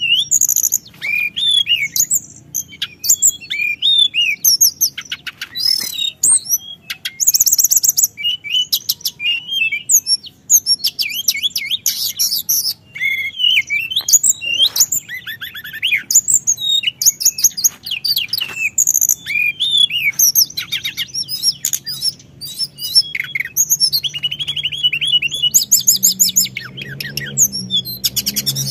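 Teledekan gunung songbird singing without pause: rapid high-pitched chirps, whistled notes and rolling trills in quick runs. Faint low hum underneath.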